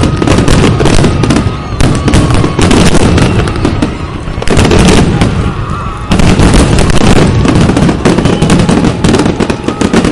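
Aerial fireworks finale: a loud, dense barrage of shell bursts and crackling, the bangs coming almost without a break.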